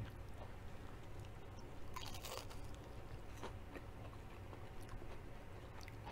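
A person bites into a piece of breaded zucchini and chews it: a burst of crunching about two seconds in, then chewing with scattered small crunchy clicks.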